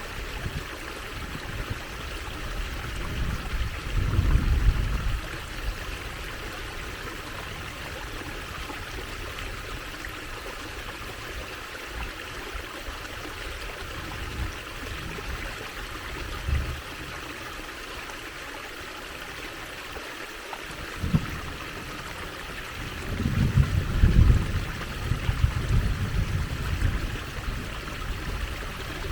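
Water trickling and running steadily, like a small stream, as an even rushing hiss. Bouts of low rumble rise over it about four seconds in and again near the end.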